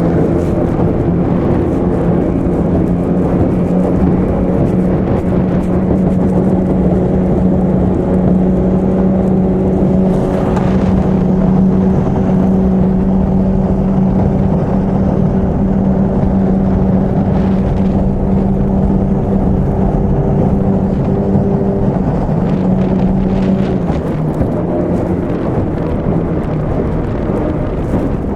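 Two-stroke 25-horsepower outboard motor on a small three-point hydroplane, running loud and steady at speed under a constant rushing noise. Near the end its steady note drops away.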